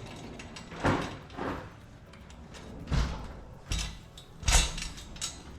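Several separate knocks and clunks, about five spread over a few seconds, from tools and hardware being worked against a garage wall.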